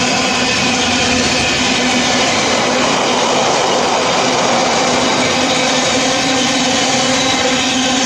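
Freight train running through the station without stopping: a loud, steady rolling noise of the train with a constant droning hum.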